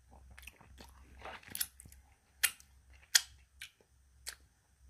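A person chewing a sauce-coated fried chicken strip with the mouth close to the microphone: soft, wet chewing with several sharp mouth clicks and smacks, the loudest two about two and a half and three seconds in.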